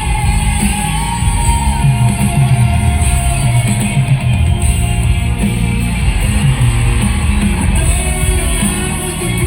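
Loud live rock band music at a concert, playing continuously with little or no singing.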